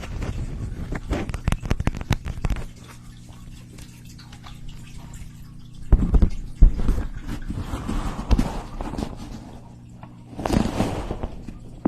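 Close-miked ASMR trigger sounds: bursts of crackling and tapping, with a steady low hum for a few seconds between them.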